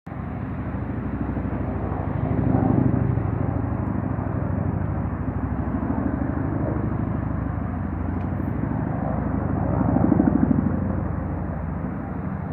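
Bell UH-1N Twin Huey helicopter passing overhead: its two-bladed main rotor gives a rapid, steady pulsing over the turbine sound, growing louder twice, about three seconds in and again near ten seconds.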